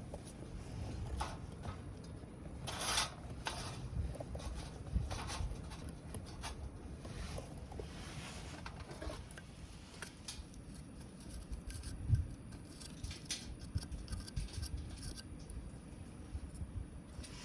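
Wood campfire crackling, with irregular small pops and snaps from the burning wood.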